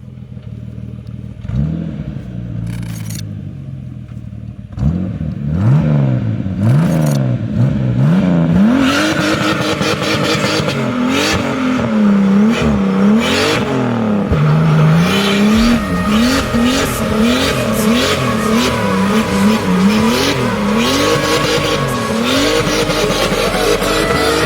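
Turbocharged BMW E28's engine being revved again and again, its pitch sweeping up and falling back in quick blips. A few quieter revs at first; from about five seconds in the revving is much louder and comes in rapid, repeated swells.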